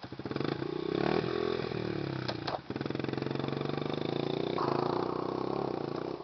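Small pit bike engine running, revving up and easing off over the first couple of seconds, a brief dip with a couple of sharp clicks about two and a half seconds in, then holding a steady pitch.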